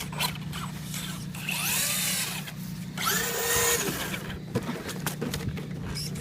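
Electric motor of a Traxxas radio-controlled car whining, its pitch rising and falling as the car speeds up and slows.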